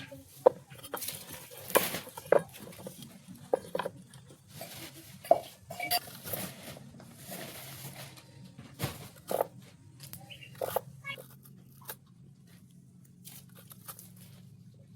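Irregular light knocks and clinks, scattered unevenly, over a faint steady low hum.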